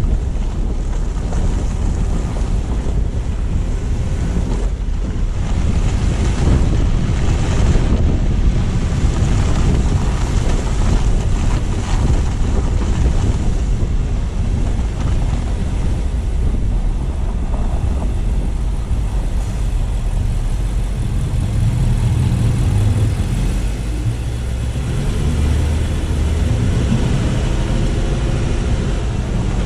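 Steady road noise from a car driving, picked up by a low-mounted GoPro: a constant low rumble of tyres and running gear with wind buffeting the microphone.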